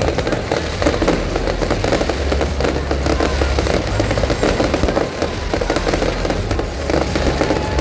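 Fireworks display going off continuously: a dense, rapid crackling of many small bursts over a steady deep rumble of booming shells.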